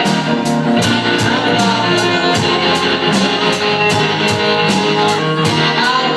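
A live rock band playing: electric guitars with drums, the cymbals struck in an even beat about three times a second.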